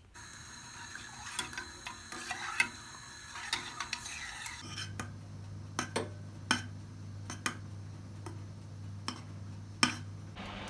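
Light clatter and sharp clicks, with a steady low hum that comes in about four and a half seconds in.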